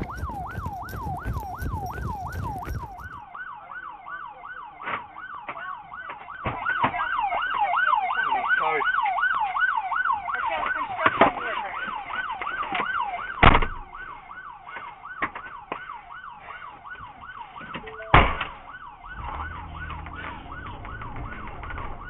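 Emergency vehicle siren on a fast yelp, a quick rising and falling wail repeating about three times a second. A few sharp knocks sound over it, two loud ones about two-thirds of the way through and near the end.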